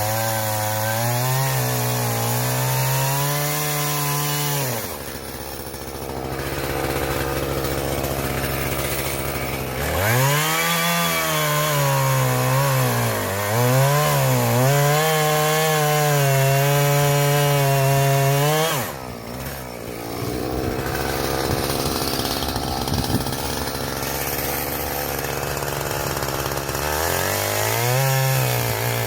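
Two-stroke chainsaw running at high revs and cutting through oak logs, its pitch wavering under load. It eases off to a lower, rougher running twice, about five seconds in and again around nineteen seconds, and revs back up each time.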